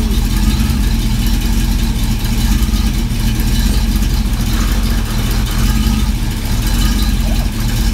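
Engine on a run stand running steadily at a low, even speed through newly fitted mufflers, on test for an acceptable exhaust sound.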